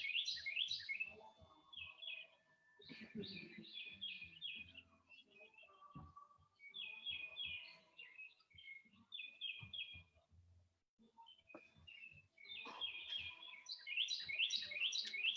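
Songbirds singing outdoors: bouts of quick repeated chirping notes, each a couple of seconds long, with short pauses between them.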